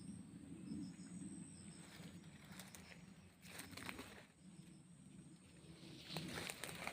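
Faint outdoor ambience: a steady high-pitched insect drone with a soft chirp repeating every fraction of a second, and a few brief faint rustles and clicks.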